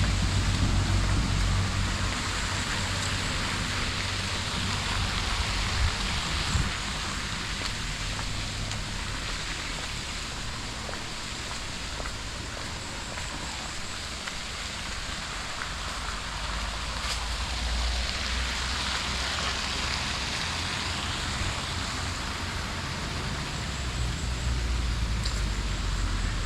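Steady outdoor ambience: an even hiss with a low, wavering rumble underneath.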